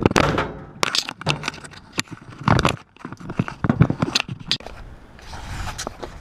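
Hands and tools working on the wiring of an air-conditioner condenser's capacitor: an irregular run of clicks, knocks and scrapes as wire terminals are pulled off, with louder knocks about a second apart early on and a scratchy rustle near the end.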